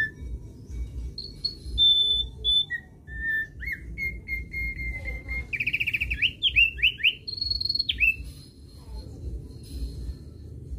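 Thick-billed white-eye (opior paruh tebal) singing a varied song of clear whistled notes, some held briefly, with a quick run of sweeping notes about halfway through, over a steady low rumble.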